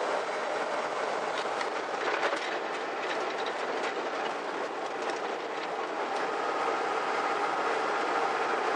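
Road noise from a vehicle rolling on a rough dirt road: a steady rumbling hiss with scattered ticks and rattles, and a steady whine coming in about six seconds in.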